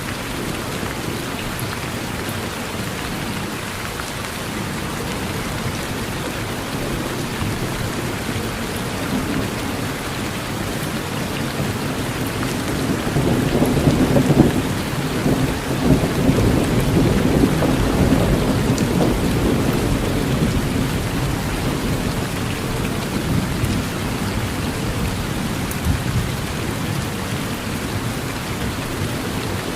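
Steady rain falling on a porch, with a long low rumble of thunder that builds about twelve seconds in, peaks and fades away over about ten seconds.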